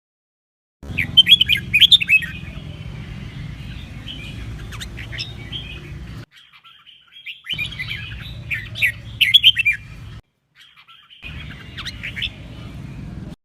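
Red-whiskered bulbul singing quick bursts of bright, warbled notes over a steady low rumble. The recording cuts abruptly to dead silence several times between spliced segments.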